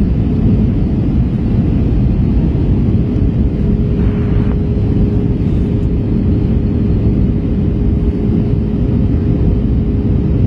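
Steady rumble of engine and airflow noise inside the cabin of an Airbus A321 airliner in flight, with a steady hum running through it and a brief hiss about four seconds in.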